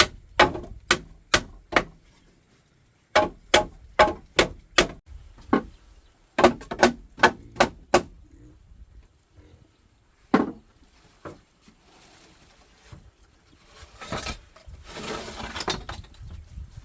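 Runs of rapid, sharp blows from a hand tool, about two to three strikes a second, in bursts of four to six with short pauses between. The blows thin out about halfway through, and a rustling scrape follows near the end.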